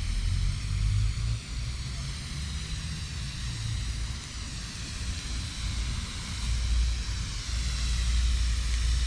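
Garden hose nozzle misting water onto a dry-poured concrete mix to wet it: a steady hiss that wavers as the spray moves, over an uneven low rumble.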